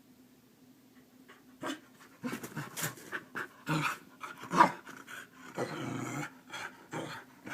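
Keeshond making a run of short vocal and breathing sounds to wake its owner, starting after a quiet second and a half, the loudest one a little past the middle, and a longer, rougher sound about two-thirds of the way through.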